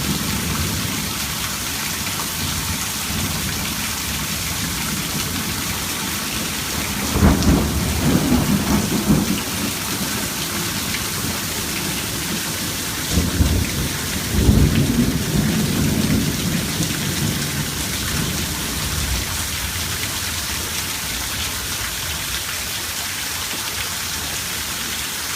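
Thunderstorm: steady rain hiss, with two rolls of thunder rumbling, one starting about seven seconds in and lasting a few seconds, the other about thirteen seconds in and lasting a few seconds more.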